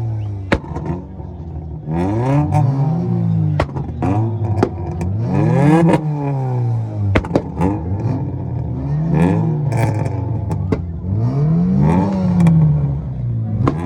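Tuned car engines being revved hard again and again, the pitch climbing and dropping back several times, with sharp pops between the revs.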